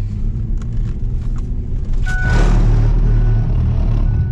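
Low engine rumble heard from inside a moving car's cabin, with a louder rushing noise coming in about two seconds in and holding.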